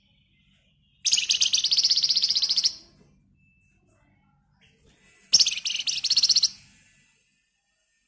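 Flamboyan songbird (wergan Jawa) giving two bursts of a rapid, dense rattling trill, its 'ngebren' song. The first lasts about a second and a half; the second starts about five seconds in and is a little shorter.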